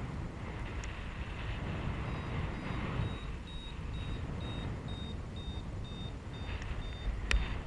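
Paragliding variometer beeping, short high tones about two and a half a second starting about two seconds in, the beeping a vario gives when the glider is climbing in lift. Wind rushes on the microphone throughout, and there is one sharp click near the end.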